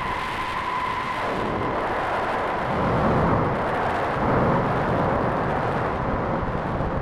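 Make Noise 0-Coast semi-modular synthesizer playing a self-generating Krell patch, drenched in reverb and delay. A held high tone stops about a second in, leaving a noisy, rumbling wash that swells twice.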